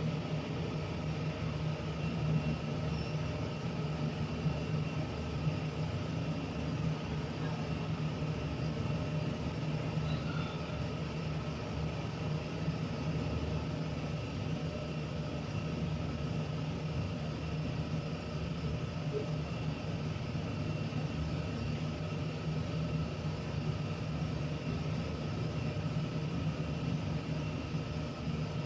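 A steady low mechanical hum that holds at one level throughout, with a few faint steady higher tones over it.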